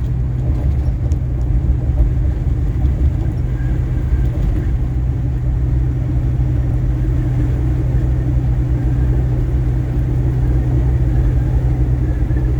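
Steady low rumble of road and engine noise inside a moving vehicle at highway speed.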